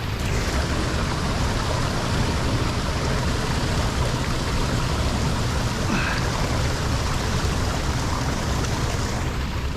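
Steady rush of lake water pouring into a partly debris-clogged drain.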